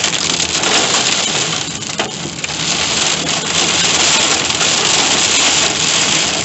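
Torrential rain pelting a car's roof and windshield, heard from inside the moving car: a loud, dense, steady clatter, with one sharp click about two seconds in.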